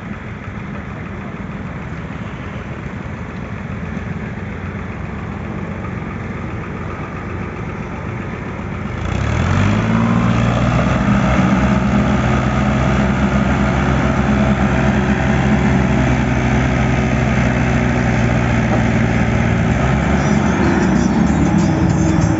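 Tractor engine running steadily, growing louder about nine seconds in and then holding a steady, deeper drone.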